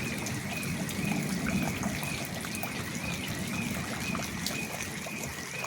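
Rainwater running and trickling in a steady flow during a heavy downpour, with a faint high warbling tone repeating about twice a second.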